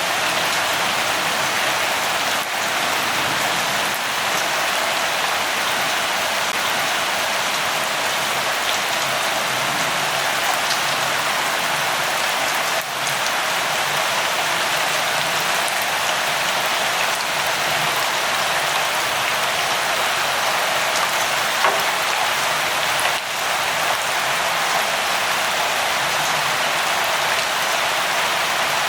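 Steady rain falling, an even hiss of many drops, with a few faint drop ticks.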